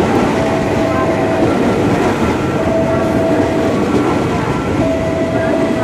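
A train running past, a loud steady rumble of wheels on rails. Over it, an electronic warning tone sounds for about a second at a time, repeating about every two seconds.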